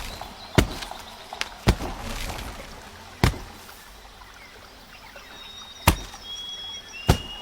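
A chimpanzee knocking with a stick to get at a bees' nest for honey: about six sharp, irregularly spaced knocks.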